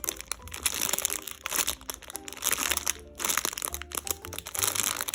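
Plastic packaging crinkling in irregular bursts as a squishy toy is handled.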